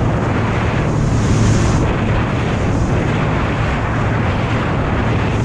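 Sea-Doo personal watercraft engine running steadily under way, with a constant low hum under wind noise on the microphone.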